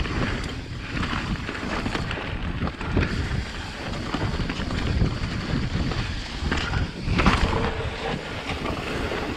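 Wind buffeting an action camera's microphone during a fast mountain-bike descent, over a low rumble of tyres on the dirt trail and frequent rattling knocks from the bike over bumps.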